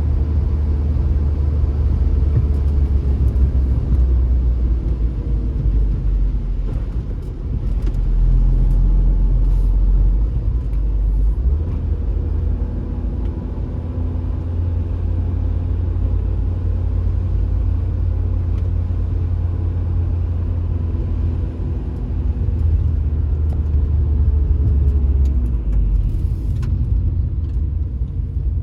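Car driving: a steady low rumble of engine and road noise, with a faint hum that drifts slowly up and down in pitch and a few faint clicks.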